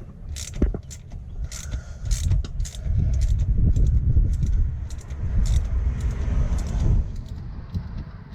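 Metal engine parts and tools clinking and tapping as they are handled, in many separate clicks. A loud low rumble rises about three seconds in and fades near the end.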